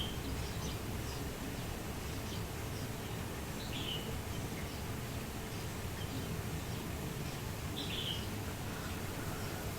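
Three short high bird chirps, about four seconds apart, over a steady low outdoor background noise.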